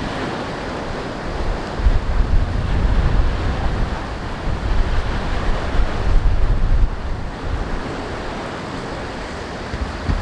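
Sea waves surging and washing over the shore at high tide, swelling louder about two and six seconds in, with wind buffeting the microphone.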